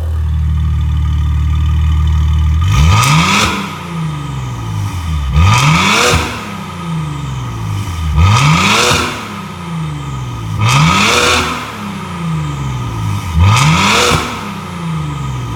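Maserati Levante engine through an EXHAUTECH valved aftermarket exhaust, running steadily for a couple of seconds and then revved five times, each rev rising sharply in pitch and falling back, about every two and a half seconds.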